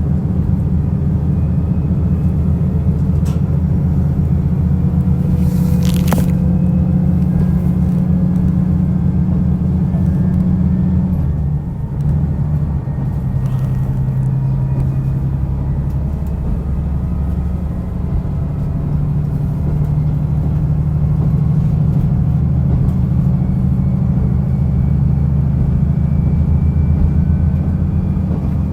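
Diesel railcar running on the rails, its engine a steady low drone, with a sharp click about 6 seconds in. The engine note drops and changes about 12 seconds in, then settles again.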